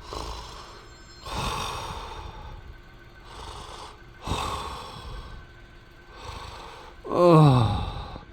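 A person voicing a waking, sick character: several loud, noisy breaths, then near the end a long groan that falls in pitch, the loudest sound.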